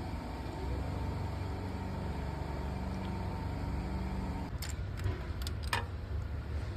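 Mercedes-Maybach engine idling steadily, its faulty fuel injectors, blamed for a banging on cold start, just replaced. About four and a half seconds in the hum changes and a few sharp clicks follow.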